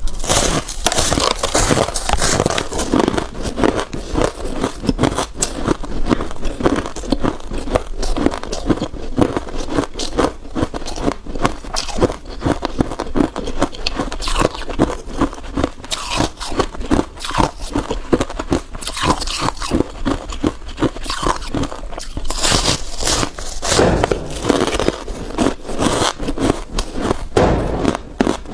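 Freezer frost being bitten and chewed close to the microphone: a dense, unbroken run of crisp crunches and crackles.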